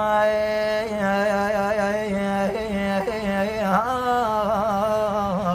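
A man singing a long held, melismatic phrase in Iraqi folk style, his voice wavering in trills and ornaments with no words. The note bends upward about four seconds in and warbles on.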